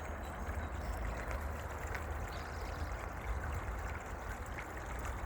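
Small spring-fed stream trickling: a steady little tinkle of running water, under a low steady rumble.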